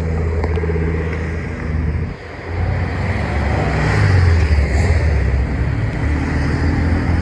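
Classic car engine running, with a brief drop about two seconds in before it builds louder again.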